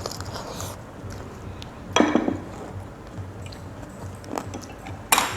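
Close-up eating sounds of a person chewing a rice-paper roll filled with pig's ear, with scattered small mouth clicks and two louder sharp crunches or knocks about two seconds in and near the end.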